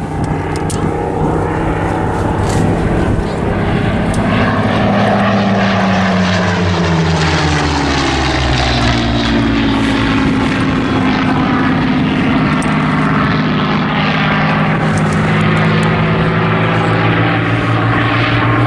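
Spitfires' Rolls-Royce Merlin V12 engines droning as the pair fly past in a tail chase, their pitch falling about halfway through as they go by, then holding steady.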